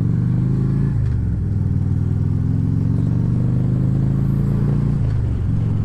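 2014 Harley-Davidson Ultra Classic Limited's V-twin engine running at riding speed, heard through a helmet microphone. Its pitch drops briefly twice, about a second in and again about five seconds in.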